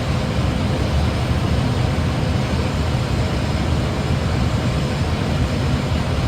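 Airbus A320 flight deck noise on final approach: a steady low rumble of airflow and engines with an even hiss of air over it.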